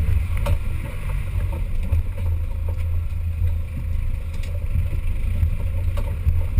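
Off-road 4x4's engine running steadily with a low drone, with a couple of sharp knocks.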